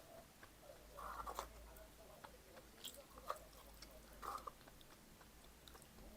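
A person chewing food with the mouth close to the microphone, faint, with a few short crunches and wet mouth clicks at uneven intervals.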